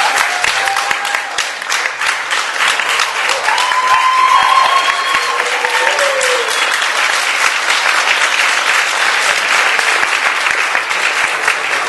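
Audience applauding steadily with a few cheering voices.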